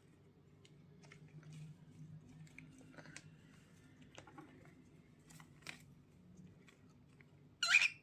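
Cockatiel nibbling and picking with its beak: many faint small clicks and scratches. A short, sharp call sounds once near the end.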